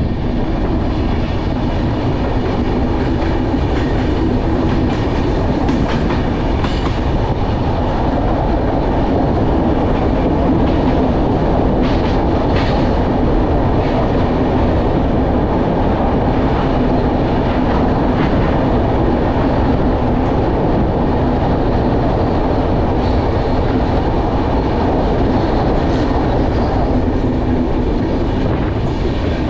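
Passenger express train running at speed, heard from an open coach door: a loud, steady rumble of the wheels on the rails with some clickety-clack. Partway through, the train runs through a tunnel.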